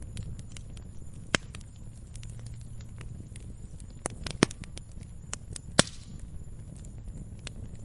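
Log fire crackling: irregular sharp snaps and pops over a low steady rumble, with three louder pops standing out.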